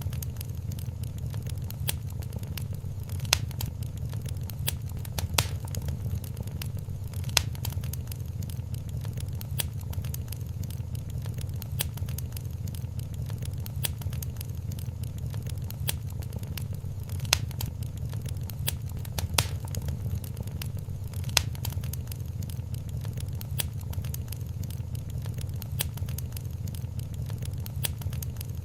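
Wood fire crackling in a fireplace: a steady low rumble of flames with a constant scatter of small snaps and a louder pop every few seconds.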